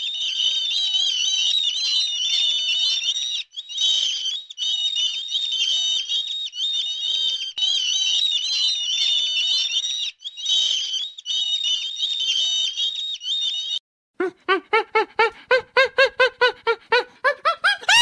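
A flock of seabirds calling, many high cries overlapping, with a couple of short breaks. About 14 seconds in this cuts to a different animal giving a rapid series of pitched calls, about four a second, rising in pitch near the end.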